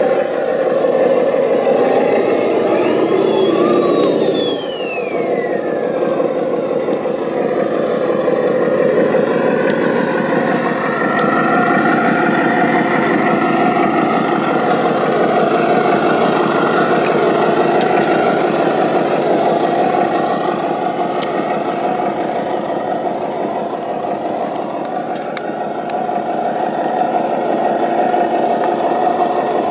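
Radio-controlled model construction vehicles running, with a steady mechanical motor and gear sound. A whine rises and falls between about two and six seconds in.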